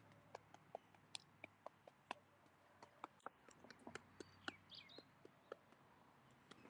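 Near silence: faint outdoor ambience with scattered soft clicks and a few faint, brief bird chirps.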